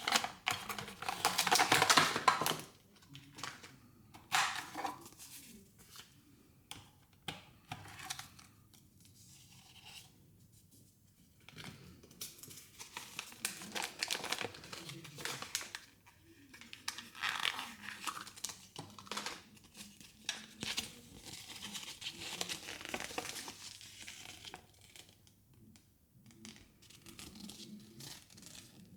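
Plastic toy packaging being torn open and crinkled by hand. A loud tearing rip comes in the first couple of seconds, then bouts of crinkling and rustling with quiet gaps between them.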